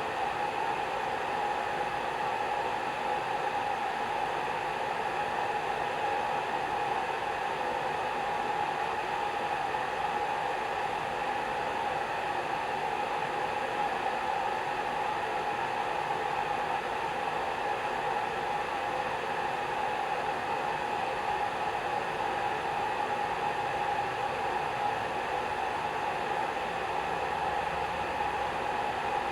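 Hair dryer blowing steadily, a constant whooshing rush of air with a motor hum, unchanging throughout.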